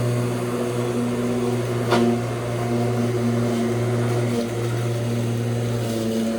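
Lawn mower running at a steady speed with an even hum, and a single sharp click about two seconds in.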